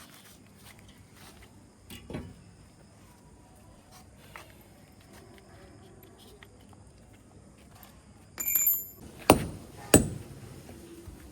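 Installation work: a few light knocks and clicks, then a short high squeak a little after eight seconds, followed by two sharp knocks well under a second apart.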